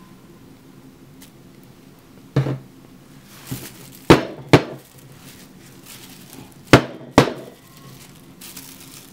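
Five sharp knocks on a hard surface: one, then two pairs, each pair about half a second apart.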